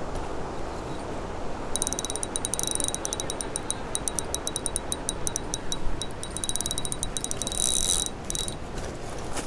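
Spinning reel being cranked, a fast ticking whir that starts about two seconds in, pauses briefly now and then, and stops near the end, over the steady rush of creek water.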